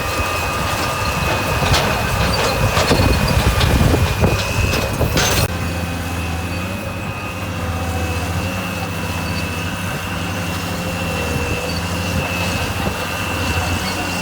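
Diesel engine of heavy earthmoving equipment running steadily, with a high steady whine over it. Clanks and rattles during the first five seconds, then an abrupt change about five seconds in to a steadier engine hum.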